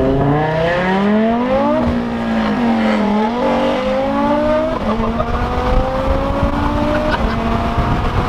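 A big-turbo Audi RS3's turbocharged five-cylinder engine heard from inside the cabin, accelerating up through the gears. The pitch climbs, drops at a shift about two seconds in, climbs again and drops at shifts near five and seven seconds in, and each climb is slower than the last.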